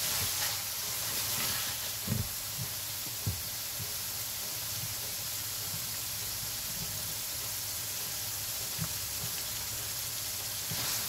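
Beef keema frying in a karahi: a steady sizzle, with a couple of knocks from the wooden spatula against the pan about two and three seconds in.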